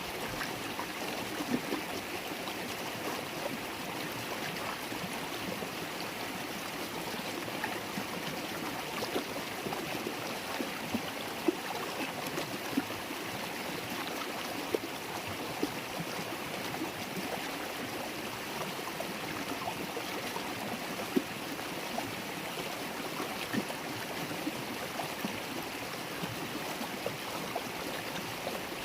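River water babbling and gurgling steadily over stones, with occasional brief louder splashes.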